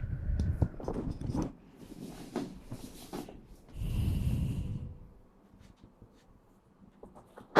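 Close-miked breath sounds: two heavy breaths, one at the start and one about four seconds in, with soft clicks and rustles between them.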